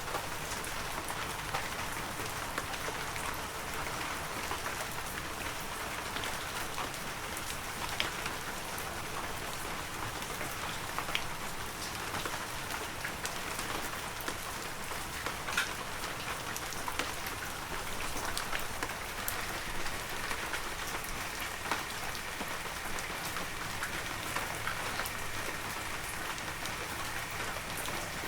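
Steady heavy rain falling, an even hiss with individual drops ticking sharply on near surfaces every second or so.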